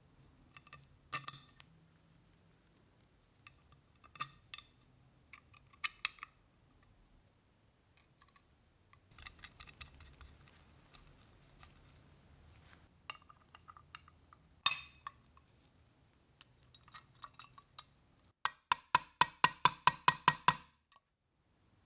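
Scattered clicks and clinks of small hard parts being handled, with one sharp click about two-thirds of the way in. Near the end comes a fast, even run of about a dozen loud clicks, roughly five a second, which then stops abruptly.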